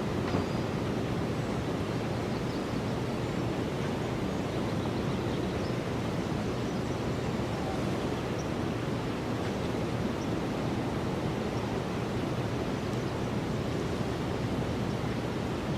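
Steady wind, an even rushing noise with no distinct events.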